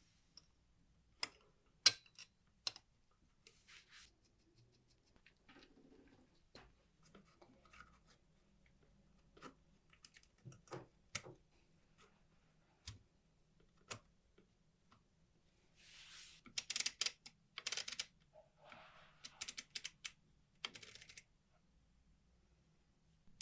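Small metal parts clicking and tapping as they are handled, with scattered sharp clicks and a stretch of quick rattling clicks in the second half.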